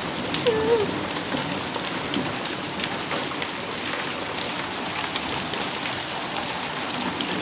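Heavy rain and hailstones pelting down in a thunderstorm: a steady dense hiss, with many small sharp hits of hail striking surfaces.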